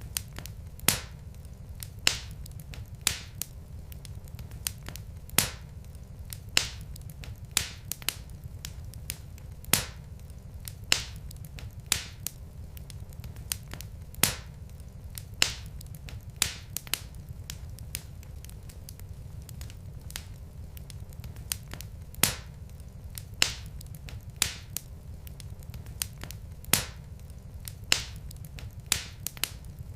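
Wood fire burning in a fireplace: sharp crackles and pops about once or twice a second over a steady low rumble of the flames.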